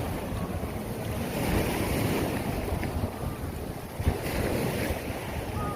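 Sea surf washing up and drawing back, with wind rumbling on the microphone. The hiss of the water swells twice, and there is a single thump about four seconds in.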